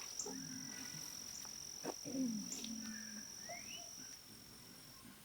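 A steady, high-pitched insect trill, with faint low sounds beneath it. The trill stops shortly before the end.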